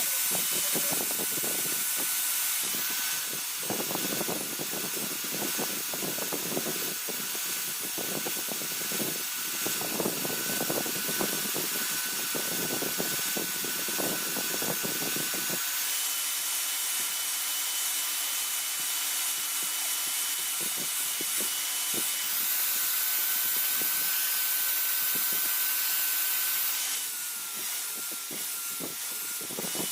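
Electric grinder running with a steady whine while grinding the steel of a blade forged from a car leaf spring, with rough scraping contact for the first half that eases off after about 16 seconds.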